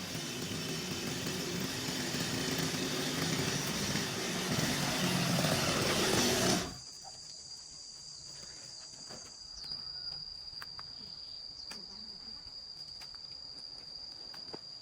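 Small petrol engine running unevenly, then cutting off abruptly about six and a half seconds in. After it stops, a steady high insect trill is left, with a few light clicks.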